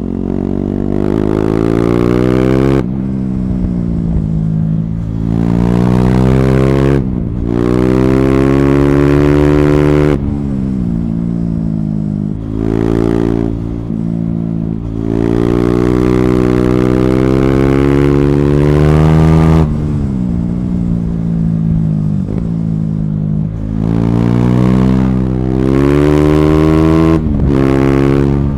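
KTM Duke 390 single-cylinder engine through an Akrapovic slip-on exhaust with the catalytic converter removed (decat), pulling hard through the gears. The pitch climbs, then drops sharply at each upshift, several times. Between pulls there are stretches where the revs fall as the rider rolls off.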